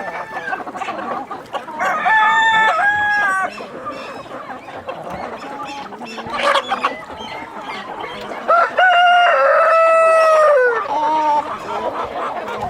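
Rooster crowing twice, about six seconds apart, each crow a long held call that drops off at the end, with chickens clucking in between.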